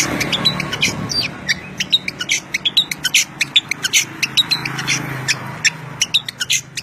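Songbirds chirping in a rapid, dense stream of short high notes, over a steady low hum.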